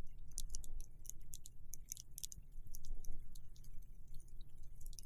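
Snow crunching under walking boots, with irregular sharp crackles several times a second over a steady low rumble.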